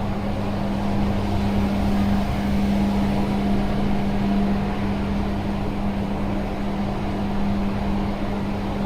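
Machinery running steadily: a constant hum under an even rushing noise, with no change in speed.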